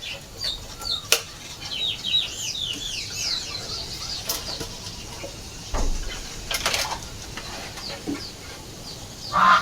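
A small bird chirps in a quick run of short high notes for about two seconds, then more sparsely. Several sharp knocks sound over it.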